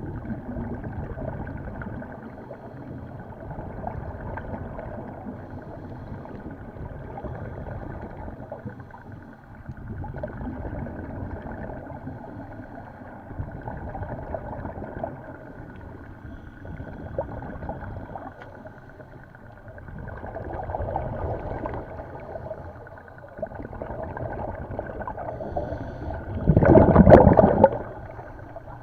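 Muffled underwater sound of a scuba diver breathing through a regulator: swells of exhaled bubbles every few seconds, with a loud burst of bubbling near the end.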